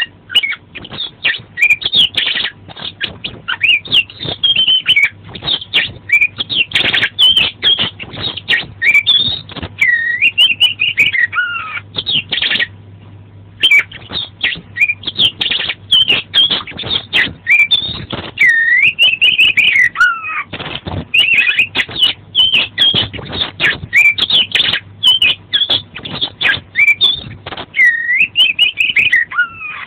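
Oriental magpie-robin (kacer) singing vigorously: a fast, unbroken stream of varied whistles, chirps and rising and falling gliding notes, with a brief pause about thirteen seconds in.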